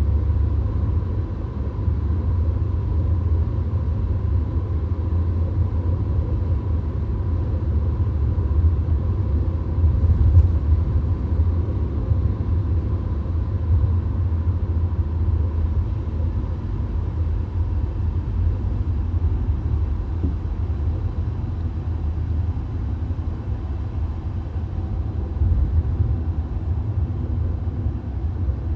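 VW Golf cruising at a steady motorway speed, heard from inside the cabin: a steady low rumble of tyres, road and engine, with a faint steady tone above it.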